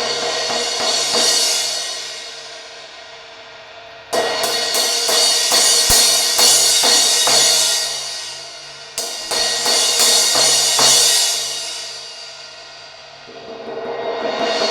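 Repaired 16-inch Zildjian A Custom Projection Crash cymbal being struck in rounds of several hits, each round ringing out and fading before the next. New rounds come about 4 seconds in and about 9 seconds in, with another swell near the end. The crack has been smoothed out of the cymbal.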